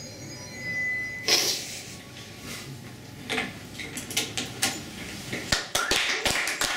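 The music stops with a sharp hit, followed by scattered knocks and clicks. Clapping breaks out about five and a half seconds in.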